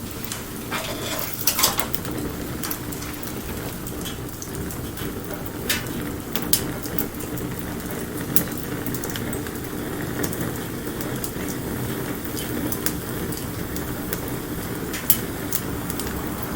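Wood campfire burning with a steady hiss and low rumble, crackling with scattered sharp pops: a small cluster early on and single pops at intervals.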